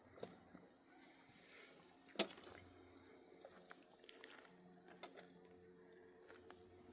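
Near silence: a faint steady high-pitched tone, with one sharp knock about two seconds in and a few softer ticks.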